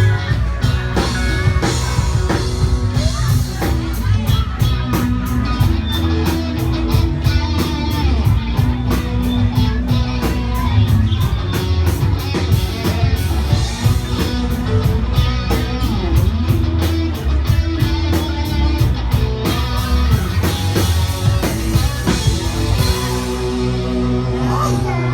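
A country-rock band playing, with electric guitar over a drum kit keeping a steady beat. About two seconds before the end the drums drop away and the guitar carries on.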